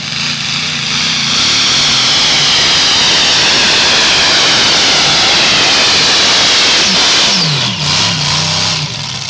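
Modified competition pulling tractor's engine running at full throttle under load, very loud, then throttling back about seven and a half seconds in, its pitch falling as it slows.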